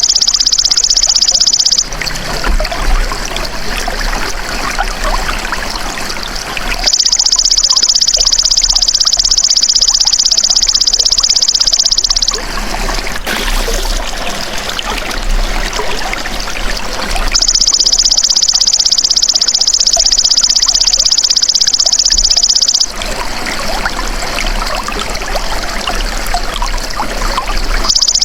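Belalang emas insect calling: a high, shrill, buzzing trill in bouts of about five seconds with pauses of about five seconds between them. Running water trickles through the pauses.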